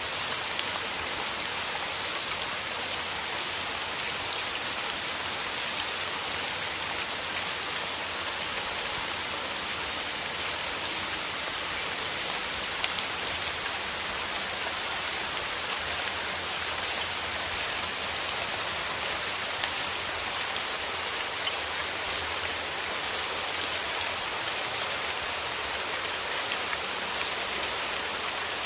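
Steady rain falling: an even hiss with many small, sharp drop ticks scattered through it, unchanging throughout.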